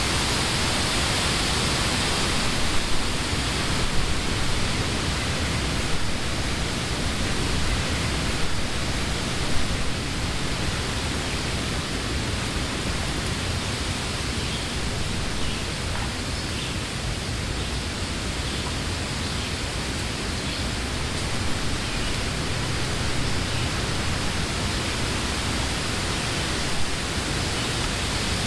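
Summer wind blowing through leafy trees: a steady rustling hiss of leaves over a low rumble. It is a little stronger in the first few seconds, with a few brief louder gusts in the first ten seconds.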